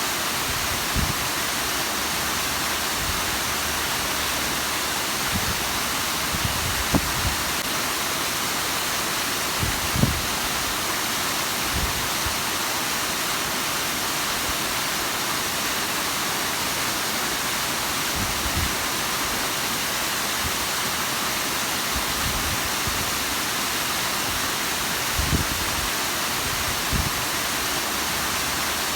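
Bigăr waterfall: water falling and splashing in a steady, even rushing hiss. A few brief low thumps come through it here and there.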